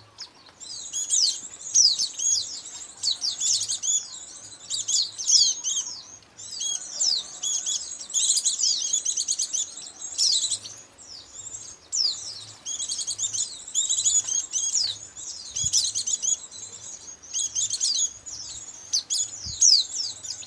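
Dense, continuous chatter of many white-eyes (pleci), rapid high thin chirps and trills overlapping with hardly a break: a bird-trapping lure call for white-eyes.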